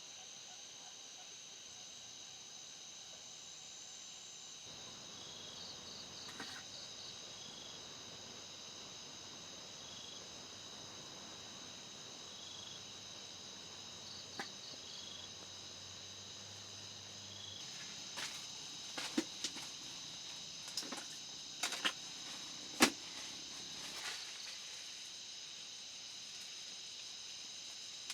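Night insects singing steadily at several high pitches over a soft hiss, with short repeated chirps now and then. From about two-thirds of the way in, a run of sharp clicks and knocks, the loudest near the end of that run.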